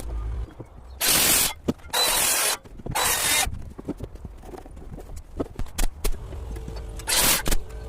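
Carpentry work on timber posts and beams: four short bursts of hissing noise, each about half a second long, with many scattered knocks and clicks between them.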